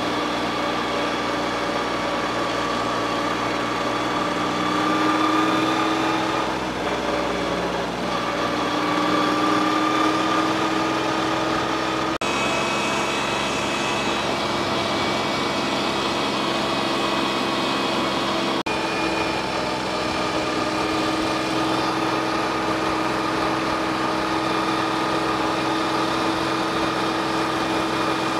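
Diesel engine of a backhoe loader or tractor running steadily, its pitch rising slightly twice as it picks up revs under load, with two brief dropouts about twelve and eighteen seconds in.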